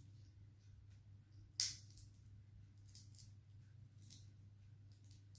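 Eating sounds close to the microphone: a few short, crisp mouth noises, the loudest about a second and a half in, over a low steady hum.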